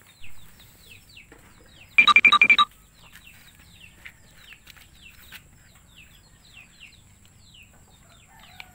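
Birds chirping faintly, a steady run of short falling chirps. About two seconds in comes a brief, louder burst of five rapid high-pitched notes.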